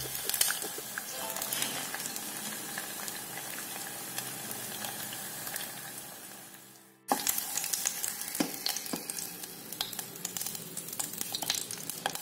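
Oil sizzling and crackling under a frying egg in a nonstick electric cooking pot. The sizzle fades out about halfway through, then starts again suddenly at the same steady level, with hot oil left in the pot.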